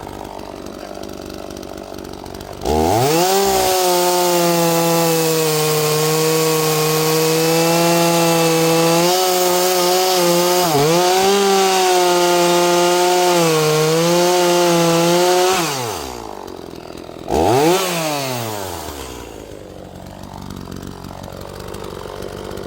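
A small two-stroke chainsaw idles, then goes to full throttle about three seconds in. It holds high revs for roughly thirteen seconds, its pitch dipping briefly a few times. It then drops back, gives one short rev, and returns to idle.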